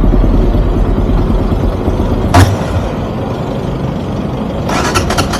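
Motorcycle running on the road, a steady low engine rumble mixed with wind noise on the microphone, with one sharp knock about two and a half seconds in.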